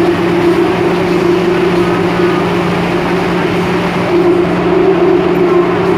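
MTR M-Train electric multiple unit running: a loud, steady rumble of the train under way, with a steady low hum over it.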